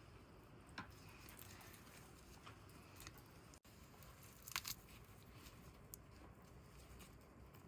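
Near silence with a few faint, short crackling clicks, one a little under a second in and a small cluster a little past halfway.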